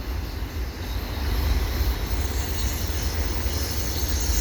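Freight train of empty auto rack cars rolling past, a steady rumble of wheels on the rails.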